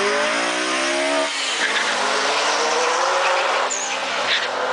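Cars accelerating hard down a drag strip from the launch: the engine note climbs steadily in pitch, drops at an upshift about a second and a half in, then climbs again more slowly as the cars pull away.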